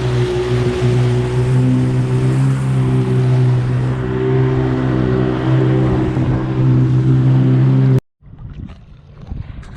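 1995 Sea-Doo SP jet ski's two-stroke engine running steadily under way, with the hiss of water spray. It cuts off abruptly about eight seconds in, leaving fainter wind and water noise.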